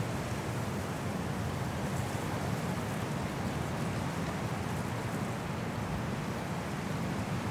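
Strong wind blowing through forest trees in a snowstorm, a steady rushing roar that holds without let-up.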